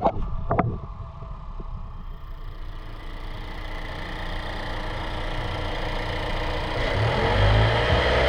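2025 Mazda CX-50's 2.5-litre four-cylinder engine running at idle, growing steadily louder, with a couple of sharp knocks at the start and a change in tone about seven seconds in.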